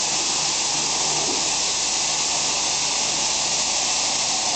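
Pressure washer spraying, a steady hiss of water jet with a low hum underneath.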